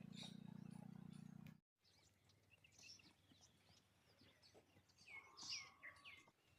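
A steady low hum that cuts off abruptly about a second and a half in, followed by faint bird chirps, a few short calls about five seconds in.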